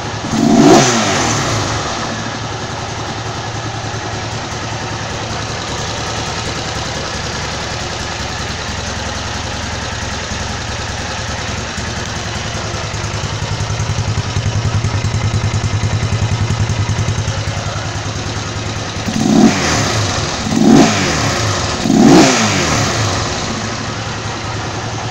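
Built-up 262 cc Honda CG single-cylinder motorcycle engine idling steadily at about 1500 rpm, a smooth, even idle. A quick throttle blip comes about a second in, and three more come a little over a second apart near the end.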